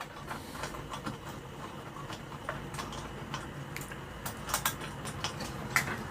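Irregular light clicks and taps of small metal parts and hand tools being handled on an amplifier chassis during disassembly, over a steady low background hum.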